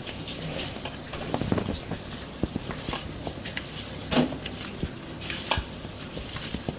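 Pots, pans and utensils clinking and knocking while cooking, a scatter of irregular sharp strikes over a steady background hiss.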